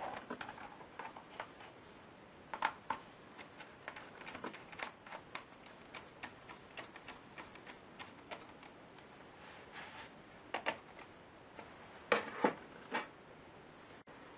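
Irregular light clicks and taps of a laptop's small plastic and metal parts being handled, with a few louder clicks about twelve seconds in.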